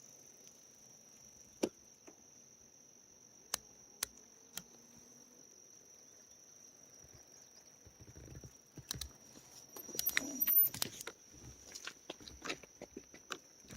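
A steady high-pitched insect drone, with a few sharp clicks and, from about eight seconds in, a run of rustling and knocking.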